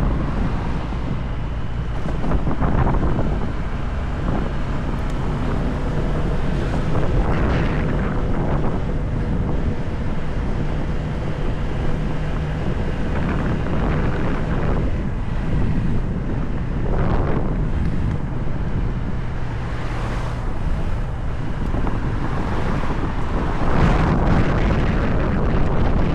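Motorcycle engine running at a steady pace while riding, under heavy wind buffeting on the microphone that swells in gusts.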